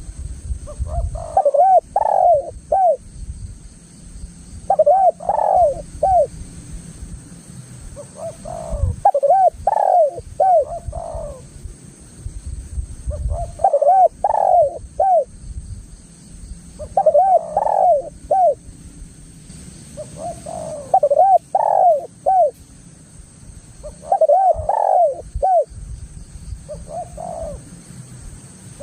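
Spotted dove cooing, repeating its short phrase of three or four soft notes about every 3 to 4 seconds.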